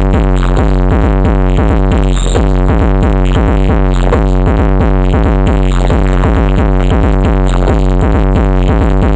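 Electronic dance music with a drum-machine beat and heavy, steady bass, played very loud through the Blizzard sound rental's large stage sound system during a sound check.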